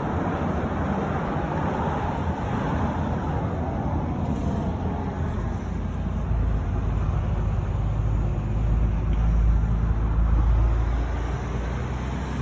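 Road traffic noise, with a motor vehicle's low engine rumble swelling as it passes, loudest about nine to ten seconds in, then easing.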